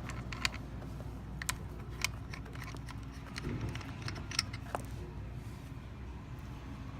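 Scattered sharp clicks and light taps from handling refrigeration gauge hoses and fittings, about six in all, over a steady low hum that stops near the end.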